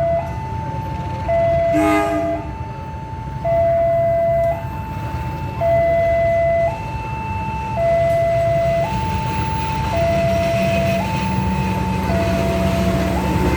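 Railway level-crossing warning alarm sounding its two-tone signal, a higher and a lower tone alternating about once a second, over a steady low rumble. A short horn blast comes about two seconds in.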